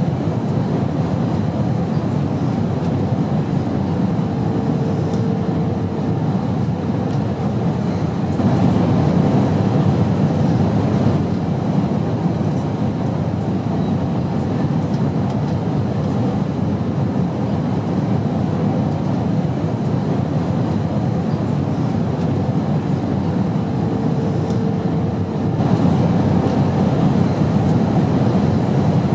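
Steady airplane drone, a low rumbling noise that holds throughout. It steps up slightly in loudness twice, and a faint held tone sounds briefly twice.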